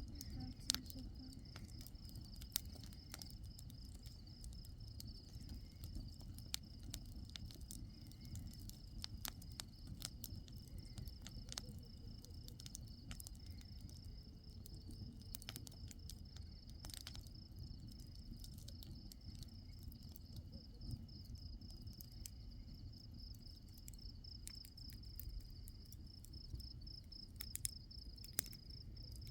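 Crickets chirping in a steady, rapid high trill that goes on without a break. Faint scattered clicks and a low rumble sit beneath it.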